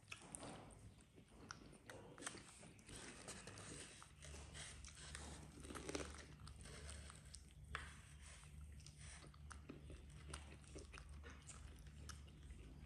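Faint, close chewing and crunching of fresh spring rolls and raw lettuce and vegetables, with small clicky bites scattered through. A low steady hum comes in about four seconds in.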